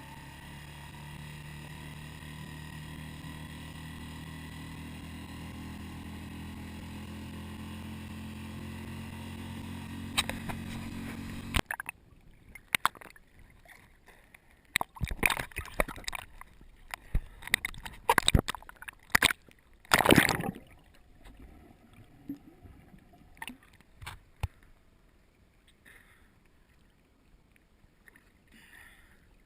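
A boat engine runs steadily for about eleven seconds, slowly rising in pitch, then cuts off abruptly. After that, water sloshes and splashes against the hull, with scattered sharp knocks and one loud splash about twenty seconds in.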